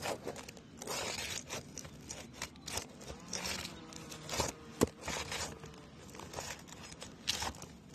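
Asphalt roof shingles scraping and crackling as roofing nails are pried out from under them. The handling is irregular and gritty, with a sharp click a little before five seconds in.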